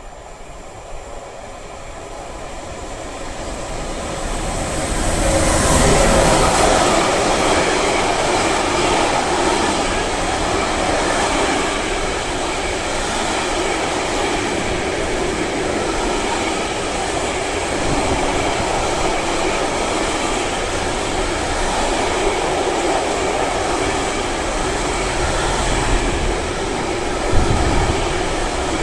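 Freight train approaching and passing close by: the sound builds over the first few seconds, peaks as the locomotive goes by about six seconds in, then the wagons roll past in a steady rail rumble, with a short sharp clank near the end.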